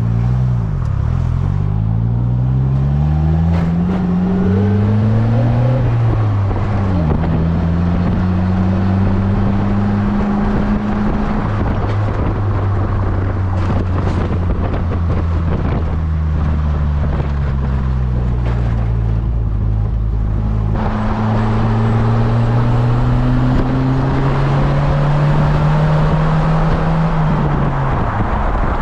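Polaris Slingshot engine pulling under way, its pitch climbing as it speeds up and dropping back at each gear change, several times over. Road and wind noise run underneath and grow louder about two-thirds of the way through.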